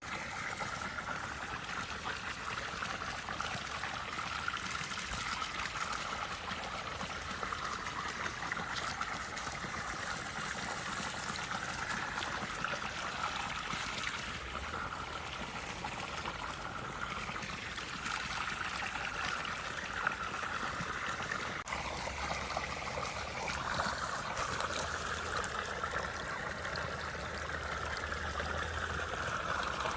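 Running water trickling and babbling steadily, as from a small stream.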